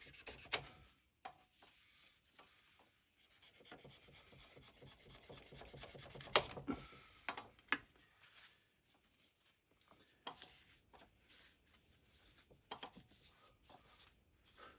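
Faint rubbing and scraping with scattered sharp clicks and knocks, from hand work on a lawn-tractor engine: a part and its shaft key being worked off the crankshaft.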